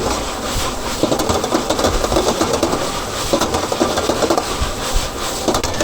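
Busy stall kitchen noise: a rapid run of clattering cookware clicks and knocks over a steady rushing bed, with faint background voices.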